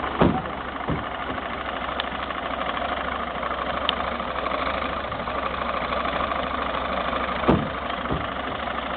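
A 1950s petrol-driven air compressor running steadily, its small engine chugging while it pumps up a tyre. Two short knocks stand out, one just after the start and one near the end.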